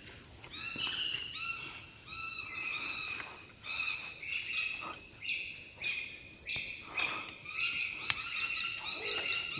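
A steady high insect drone of the tropical forest, with a bird's short repeated call notes about two a second, which the hunter takes for a kumkum, a pergam imperial pigeon.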